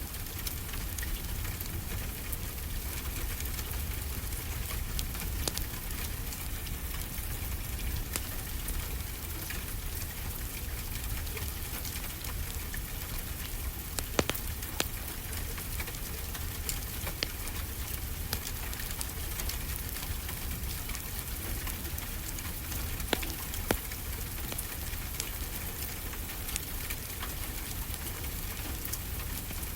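Wood fire crackling with scattered sharp pops, over a steady wash of ocean waves with a low rumble.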